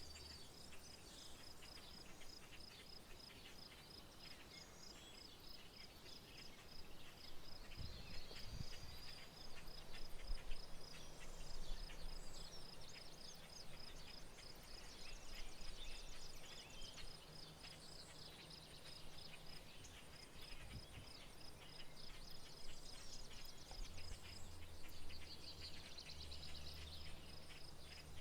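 Rural outdoor ambience: an insect's high, evenly pulsing trill, with scattered bird chirps and a faint low rumble underneath.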